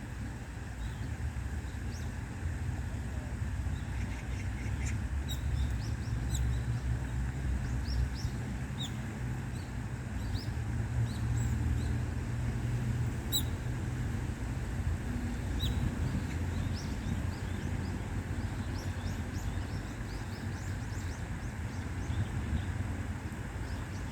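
Small birds chirping: short, high calls scattered through, over a steady low rumble.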